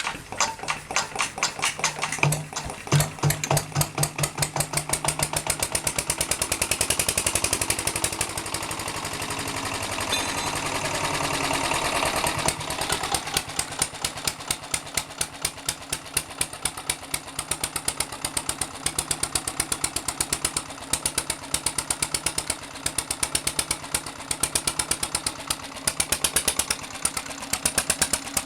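Single-cylinder Southern Cross EUC air-cooled diesel being started: it spins up with the decompressor open, the strokes quickening into a smooth rising run. About twelve seconds in it catches and settles into a steady, even beat of firing strokes.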